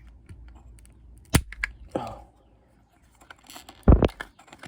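Clicks and sharp cracks of hard parts being pried loose and handled during a teardown. There is a loud crack about a second and a half in and a heavier knock near the end, which is the loudest sound.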